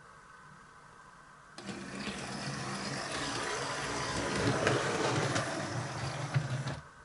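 00 gauge model locomotive, a converted Hornby 0-4-0 shunter, running along the track with its small electric motor and wheels whirring. The sound starts suddenly about a second and a half in and cuts off sharply near the end as the loco stops.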